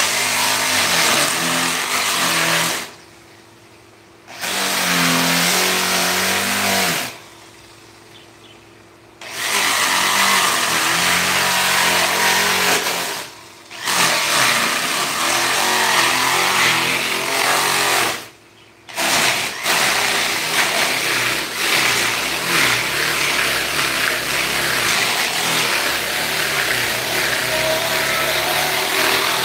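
Handheld electric power tool, such as a grinder or rotary carving tool, running in bursts on wood and switching off and on again several times, its motor pitch shifting as it takes load.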